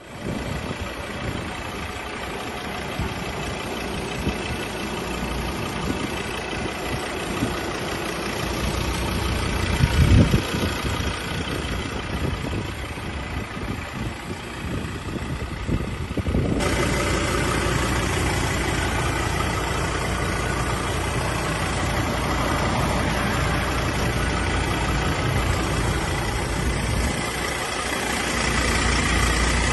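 A 2017 Ford Ranger Wild Trak's 3.2-litre five-cylinder diesel engine running steadily at idle, with a brief louder surge about ten seconds in.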